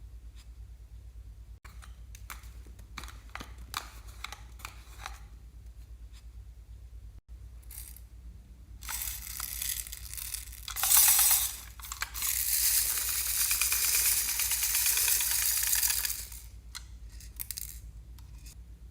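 Slime being worked by hand: a few small clicks and taps, then, about halfway through, several seconds of dense crackling noise, loudest at its start.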